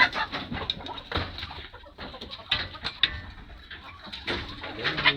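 Chickens clucking, with several sharp knocks scattered among the calls.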